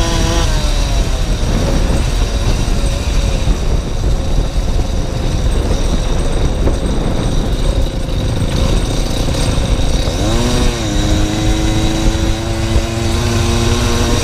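Small motorcycle engine running at cruising revs under heavy wind rumble on the microphone. The engine note sags slowly, swoops up and down quickly about ten seconds in, then holds steady.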